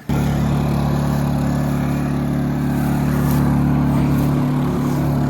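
Small gas engine of an old Honda water pump running steadily at a constant speed, a deep even hum that cuts in abruptly.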